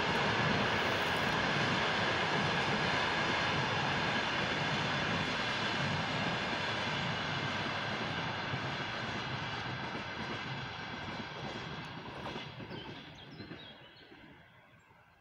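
Passenger train hauled by a ChS4 electric locomotive running past and moving away: a steady rumbling running noise with a steady high whine, fading gradually, then dropping away about 14 seconds in.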